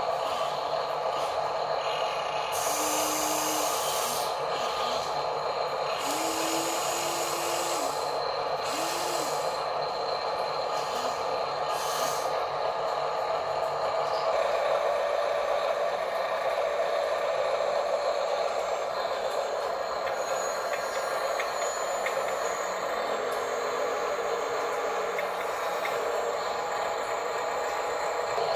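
Small electric motors and gearboxes of radio-controlled construction toys whining steadily, with a few short bursts of hiss in the first half.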